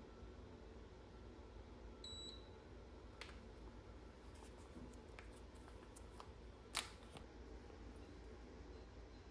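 Near-silent room tone with a short, high electronic beep about two seconds in, followed by a scattering of faint small clicks and one sharper click near the end.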